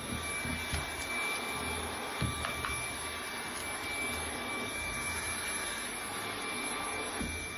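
A motor running steadily: an even hiss with a thin high whine over it, and a couple of faint knocks about two seconds in.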